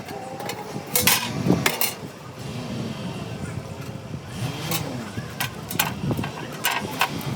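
Steel sheet metal being worked: irregular sharp metallic knocks and clanks, several close together about a second in and more scattered later, over a steady workshop din.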